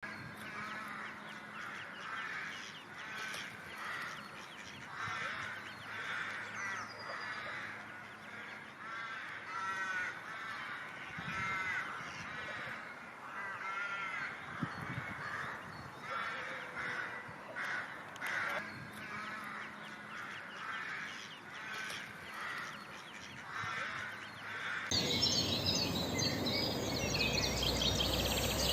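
Birds calling over and over in short arched calls. Near the end the calls give way suddenly to a louder, steady noise.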